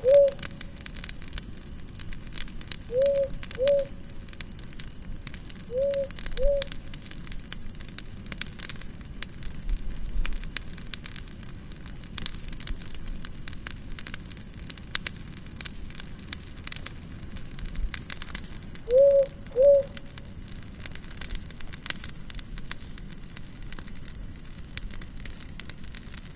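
Wood fire crackling and popping steadily. A short low two-note call sounds four times over it: at the start, about 3 and 6 seconds in, and again near 19 seconds.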